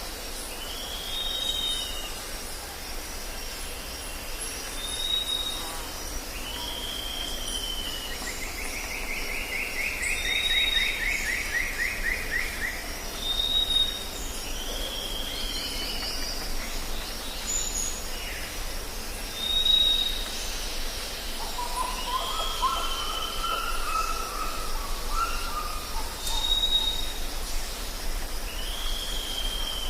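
Jungle ambience: several birds calling over a steady high insect drone. A short high whistle repeats every few seconds between arched, falling calls, with a falling trill about a third of the way in and a lower wavering call past the middle.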